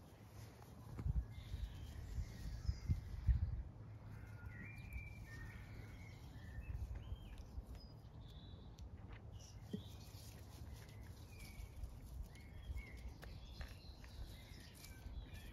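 Small birds chirping on and off in the background over a steady low rumble, which is louder in the first few seconds.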